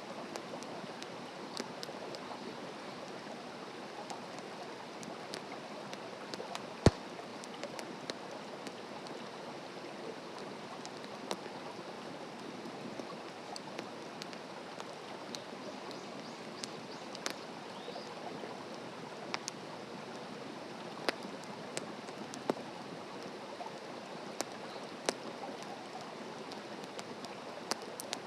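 Wood campfire burning with a steady hiss and irregular crackles and pops, one much louder pop about seven seconds in.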